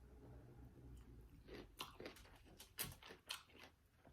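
Quiet close-up chewing: a run of short, sharp wet mouth clicks starting about one and a half seconds in.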